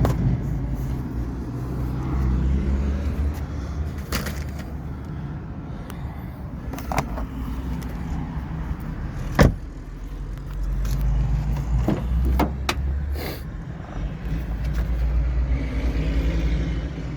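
Low rumble inside a ute's cab, with scattered clicks and knocks; the loudest is a single sharp knock about nine seconds in.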